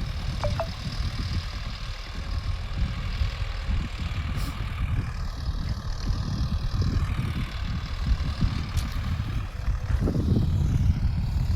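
Sonalika Tiger 65 DI CRDi tractor engine running steadily under load as it pulls a cultivator, a heavy low rumble that grows louder near the end.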